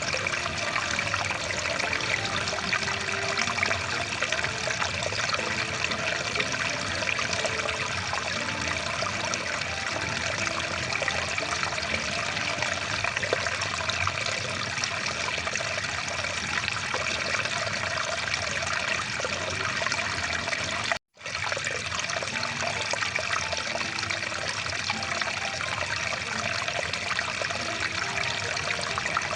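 Rushing water of a stream, a steady full hiss of flowing water. It cuts out to silence for a moment about three quarters of the way through, then carries on.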